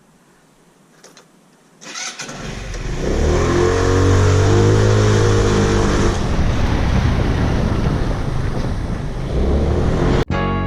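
A motor vehicle engine starting about two seconds in, revving up and running loudly, then cutting off suddenly near the end.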